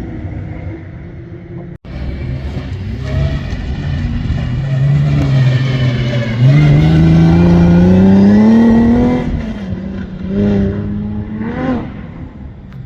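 Competition safari off-road vehicle's engine running hard under load: its pitch climbs steadily for about three seconds in the middle, then drops back, followed by two short blips of revs near the end. The sound cuts out for an instant about two seconds in.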